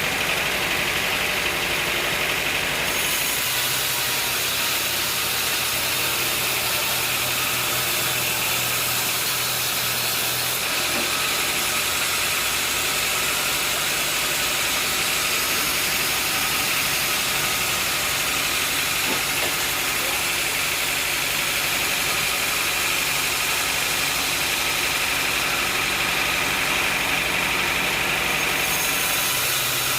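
An engine running steadily at a constant level, with a low hum and a higher whine held throughout.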